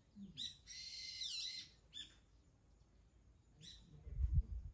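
A wild bird calling in runs of sharp, quickly falling chirps over the first two seconds, then single short calls. Low rumbling thumps near the end.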